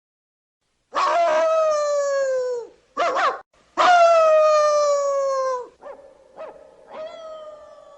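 A canine howling: after about a second of silence, two long howls that slide slowly down in pitch, with a short yelp between them, then two brief yips and a third long howl starting near the end.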